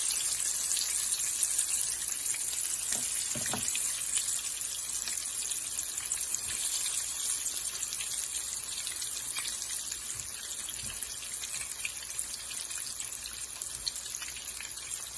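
Parboiled potato pieces frying in a pot of hot oil: a steady sizzle with fine crackling that gradually gets quieter.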